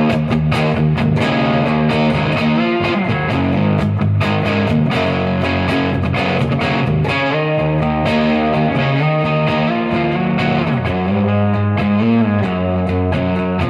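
Gibson Les Paul electric guitar played through a Third Eye overdrive pedal into a Marshall amp: a continuous run of picked single notes and ringing chords with frequent pick attacks.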